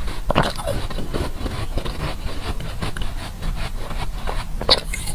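A person chewing and crunching ice, a dense run of crunches and crackles.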